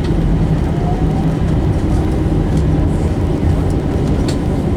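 Steady low rumble inside the cabin of an Airbus A321 rolling on the ground after landing, with a few faint rattling clicks.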